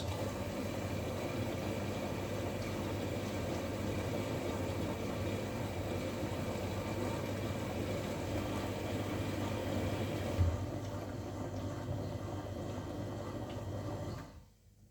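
Washing machine running in its wash stage before the spin: a steady hum with a noisy rush over it, one short thump about ten seconds in, cutting off suddenly near the end.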